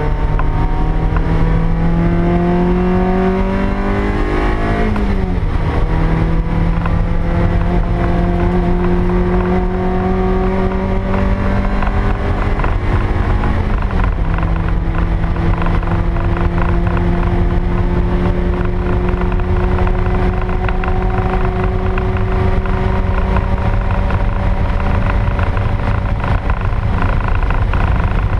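A 2000 Toyota MR2 Spyder's stock 1ZZ four-cylinder engine accelerating hard, heard from inside the cabin. Its pitch climbs, drops sharply at an upshift about five seconds in and again at a second upshift around fourteen seconds, then rises slowly through the last gear. Steady road and wind noise run underneath.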